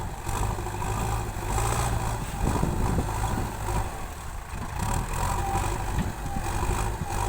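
JCB 3DX backhoe loader's diesel engine running steadily, with some scattered knocks as it works.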